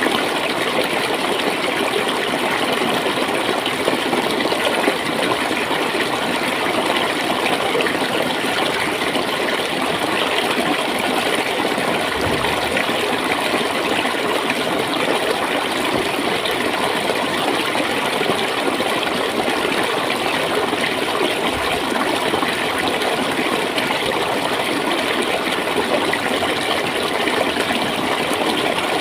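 Clear water flowing and gurgling steadily.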